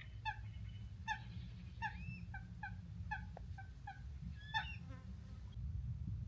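Birds giving short, repeated honking calls, about a dozen in quick succession, over a steady low rumble.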